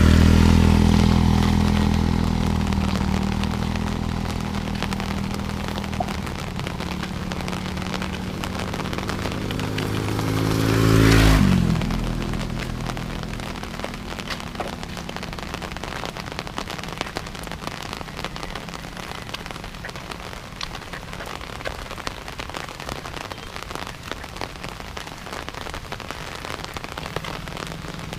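Steady rain falling, with many small drop ticks on nearby surfaces. A motor vehicle's engine fades away at the start, and another vehicle passes close about eleven seconds in, its engine pitch dropping as it goes by.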